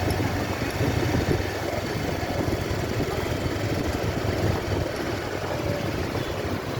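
A small engine running steadily at a low, even rumble.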